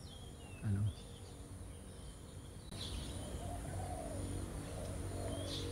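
Small birds giving short chirping calls in the tree canopy, several times, over a steady high insect buzz.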